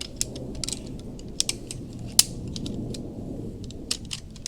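Irregular sharp clicks and clacks of a Big Agnes Skyline UL camp chair's aluminium frame poles being snapped together and fitted, over a low steady rumble.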